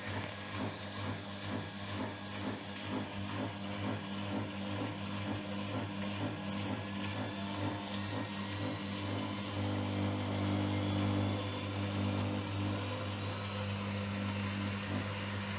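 New Whirlpool AWOD053 washing machine running noisily: a steady motor hum with a rapid, regular rattle over it that fades out about halfway, after which the hum gets louder and smoother.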